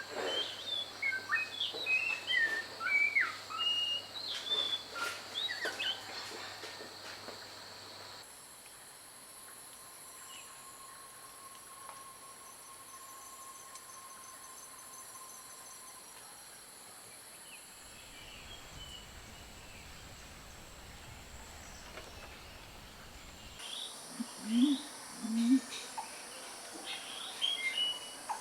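Wild birds calling: a quick run of chirps and whistles, then a quieter stretch of steady insect buzzing with a faint held tone, then more chirps with two short low calls. The background changes abruptly twice, as between separate recordings.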